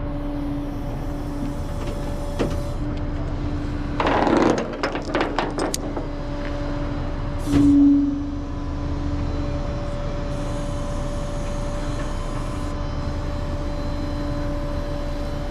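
A vehicle engine idling with a steady droning hum. About four seconds in, a quick series of metallic clanks and rattles, then a short louder burst a few seconds later.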